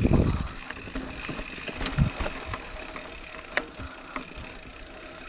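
Specialized Chisel hardtail mountain bike rolling over a rough trail: scattered rattling clicks from the bike, with a low thump at the start and another about two seconds in.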